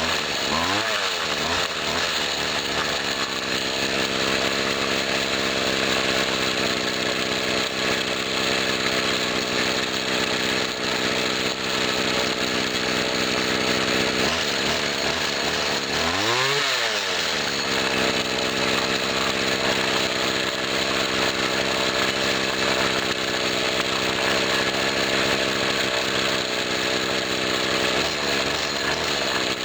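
A 1997 Husqvarna 24cc two-stroke string trimmer engine running steadily, revved up and back down briefly near the start and again about halfway through. Its Walbro carburetor has a new metering diaphragm and a fresh tune, the cure for the bogging it had at full throttle.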